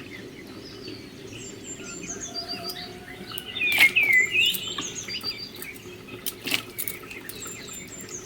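Small birds chirping repeatedly in short, pitch-gliding calls, with a few sharp clicks or taps in between.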